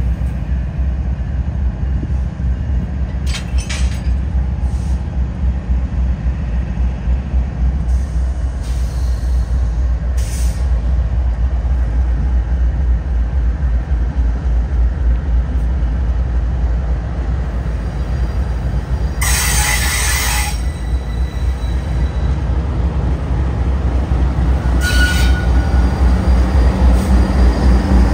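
Railcars rolling past on the rails, a steady low rumble of wheels with brief high-pitched wheel squeals, the strongest about two-thirds of the way through.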